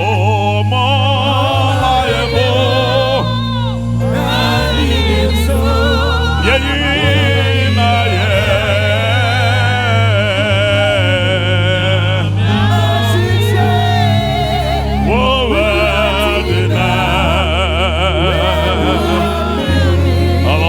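Gospel worship music: several voices singing with a wavering vibrato over held bass notes that change every few seconds.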